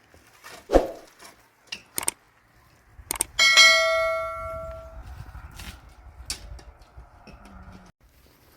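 A metal object struck once, ringing with several clear tones that fade over about a second and a half, after a few sharp knocks.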